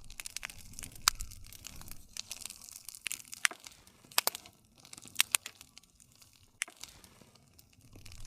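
Wood campfire crackling, with irregular sharp pops over a soft hiss and a low rumble of flame.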